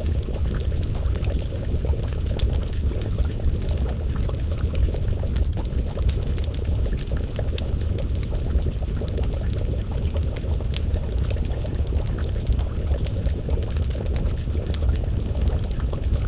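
Wood fire crackling with a pot of stew bubbling over it: a steady low rumble under frequent small, sharp crackles.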